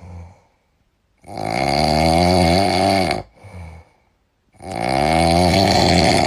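Loud snoring: two long snores of about two seconds each, with wavering pitch, each followed by a shorter, quieter breath.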